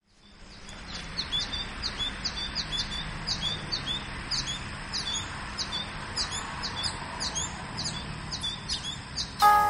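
Birds chirping: many short, high chirps, about two or three a second, over a steady low background noise, fading in at the start. A pitched note of music comes in near the end.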